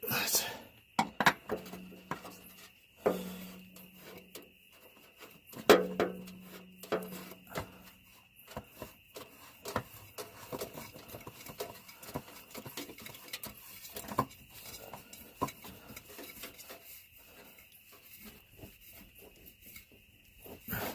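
Hand tools clinking and knocking against metal parts under the truck, in scattered sharp clicks with a few short low hums, as parts are refitted and tightened during an oil and filter change on a Ford 7.3 diesel. A faint steady high whine runs underneath.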